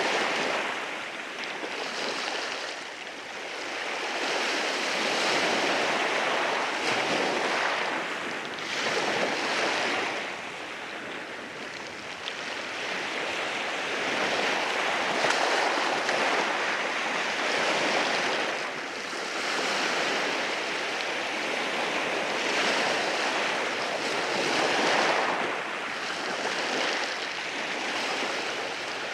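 Sea waves washing in over a rocky shore, a continuous hiss of surf that swells and ebbs every few seconds.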